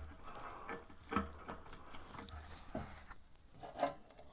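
Faint, scattered clicks and light knocks of hand tools and metal parts being handled while working at hard-to-reach bolts.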